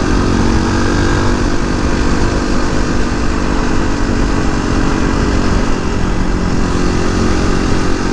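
Suzuki DR250S single-cylinder four-stroke engine with an aftermarket Dominator exhaust, running at a steady, even engine speed while riding.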